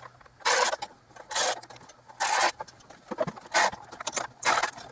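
Ratchet wrench snugging the intake manifold bolts, in about six short bursts of clicking strokes.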